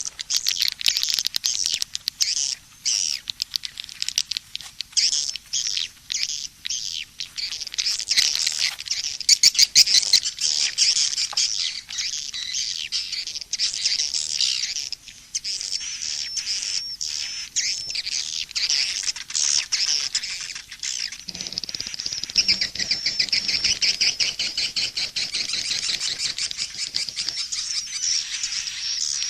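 Edible-nest swiftlets twittering: a dense, unbroken stream of rapid high chirps and buzzy trills. It is a swiftlet lure call track of the kind played from swiftlet houses to draw the birds in.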